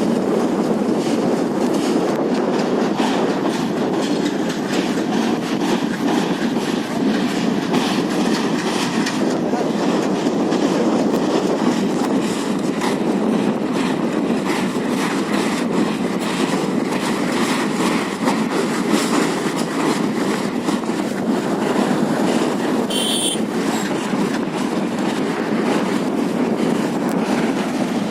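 A train running over the Pamban Bridge: a steady rumble of wheels on rails with continuous clicking from the rail joints. About three-quarters of the way through comes a brief high-pitched squeak.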